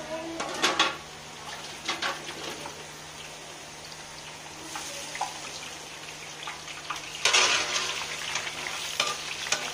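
Boondi, small drops of gram-flour batter, sizzling and crackling in hot oil in a kadai, with scattered pops. About seven seconds in, a spoon stirs them through the oil and the sizzling swells louder for about a second.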